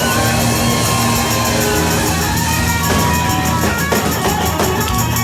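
Live band playing a rock song, with electric guitar, bass and drums and a sung melody line, heard in a room.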